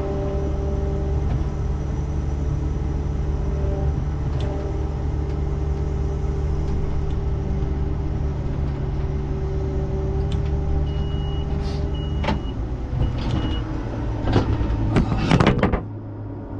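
Combine's diesel engine running steadily. Three short high beeps sound a little past the middle, followed by a few sharp clicks and knocks, and the engine sound drops away near the end.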